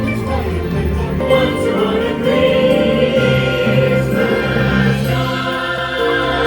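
Christmas music with a choir singing long held notes.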